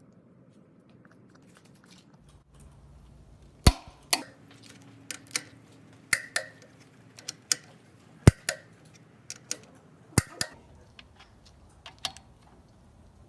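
A series of sharp, irregular metallic clinks and knocks, some ringing briefly, as hard metal objects are handled and set down.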